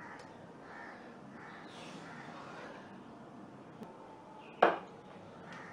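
A bird's short harsh call rings out loudly once about four and a half seconds in, and a fainter one follows just before the end, over a faint steady background hiss.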